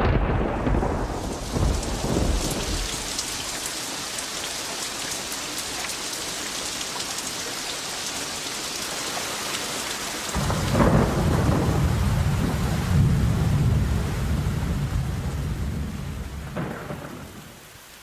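Heavy rain falling steadily, with a roll of thunder at the start and a second rumbling roll from about ten seconds in that fades away near the end.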